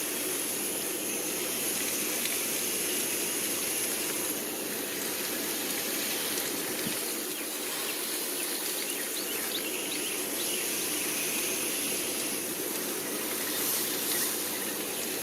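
Garden hose spray nozzle spraying water steadily into a window air conditioner's coils with a continuous hiss, rinsing the foaming coil cleaner out.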